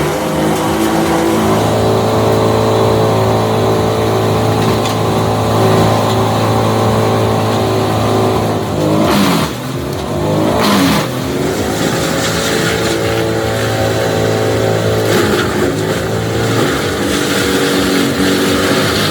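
A large engine running steadily under load, its pitch dropping and climbing back twice near the middle.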